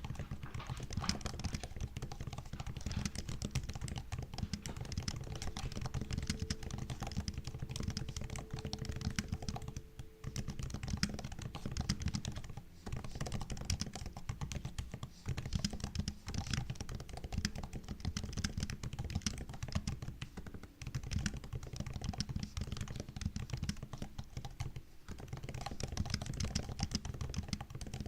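MacBook laptop keyboard being typed on: fast, continuous runs of key clicks, broken by short pauses a few times.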